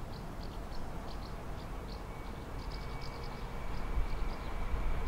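Small birds chirping over a low rumble that builds near the end, with a faint steady whine from about halfway: a train approaching along the line.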